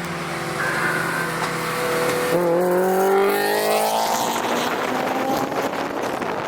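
A car engine accelerating hard: a steady drone for about two seconds, then a pitch that climbs steadily over a second and a half, giving way to a rushing noise.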